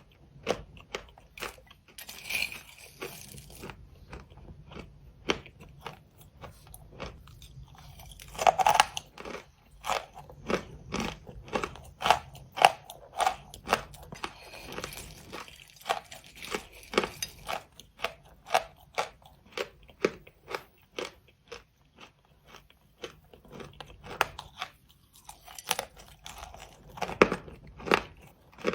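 Close-miked crunchy chewing and biting, a steady run of sharp crunches with a few louder bites.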